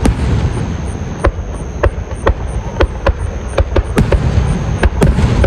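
Fireworks display: about a dozen sharp bangs at an irregular, fairly rapid pace over a continuous low rumble.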